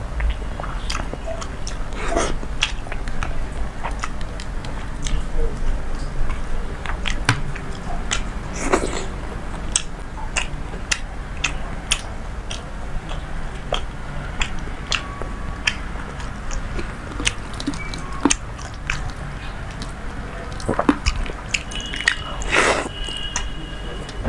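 Close-miked eating of panta bhat (water-soaked rice) and fried hilsa by hand: chewing and lip smacking, with many irregular sharp clicks and a few louder, longer mouthfuls. Wet squishing sounds come from fingers working the soaked rice.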